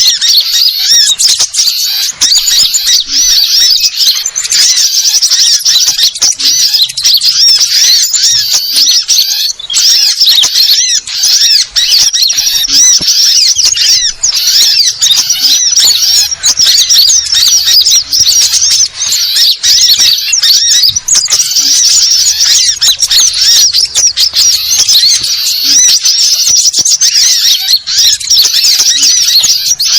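A dense, continuous chorus of small birds, sunbirds among them, chattering and twittering rapidly and excitedly without a break: the agitated 'noisy birds' chorus used as a lure call to draw birds in.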